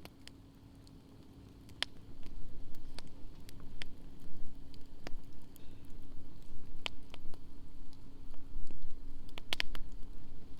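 Wood fire crackling, with scattered sharp pops from the burning firewood, over a low rumble that comes up about two seconds in.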